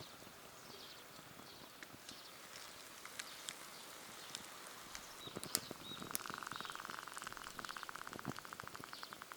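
Small wood fire crackling in a compact folding fire pit, with scattered sharp pops and ticks over a low hiss. About six seconds in, a fast, evenly pulsing trill joins and runs on.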